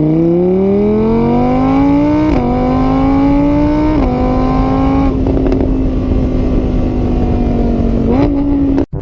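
A car engine accelerating through the gears: its pitch climbs, drops at each shift about two and four seconds in, then holds steady before cutting off abruptly near the end.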